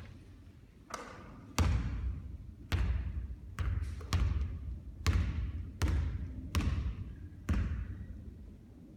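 Basketball bouncing on a hard court floor: about nine heavy bounces at uneven intervals, each with a short echo.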